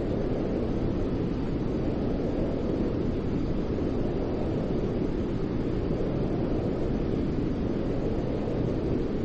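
Steady, unchanging low white noise (a deep, rumbling hiss like brown noise), with no rhythm or events.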